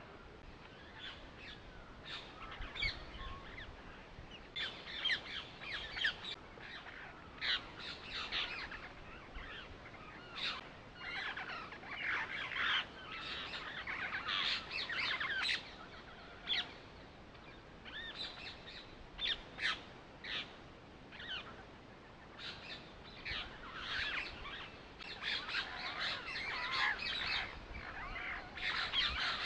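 Birds calling: many short chirps and squawks in clusters, one after another, with brief gaps between the clusters.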